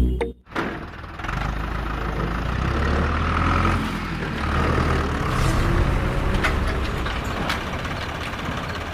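A motor running steadily from about a second in, its level rising and falling slightly.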